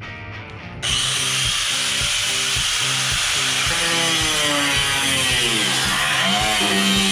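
A high-speed power cutting tool starts up about a second in and cuts into fiberglass body panels, loud and continuous, its pitch dipping and rising as it bites under load.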